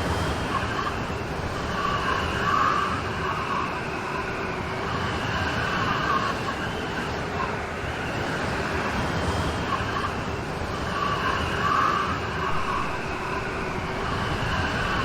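Steady rain storm, a dense even hiss with gentle swells in loudness.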